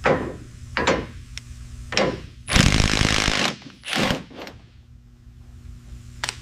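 Workshop tool sounds: three sharp mechanical clacks about a second apart, then a loud hissing burst lasting just under a second and a shorter one soon after, over a steady low hum; a single click near the end.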